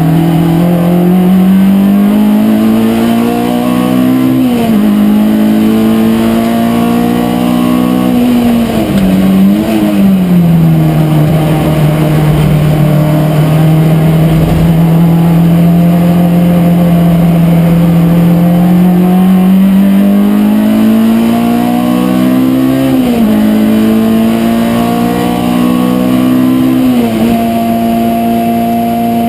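Race car engine heard from inside the cabin at full track speed. It climbs in revs and drops at an upshift about four seconds in, dips and picks up again near ten seconds, holds a long steady pitch through the middle, then climbs again with further shifts about twenty-three and twenty-seven seconds in.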